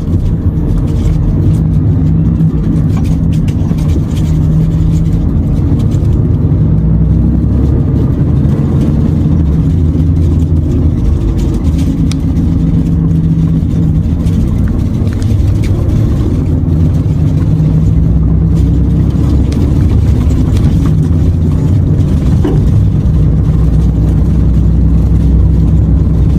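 Renault truck's diesel engine and road noise heard from inside the cab, a loud steady low drone whose pitch rises and falls a few times as the truck works along a rough country road.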